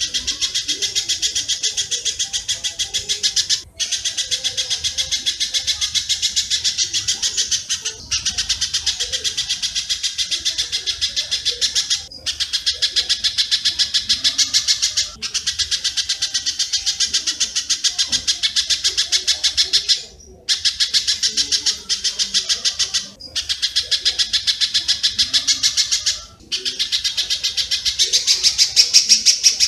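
Recorded calls of the pijantung (spiderhunter) and walet (swiftlet): rapid, high, evenly repeated chirps. They come in phrases a few seconds long separated by short breaks, as in a bird-call mastering track.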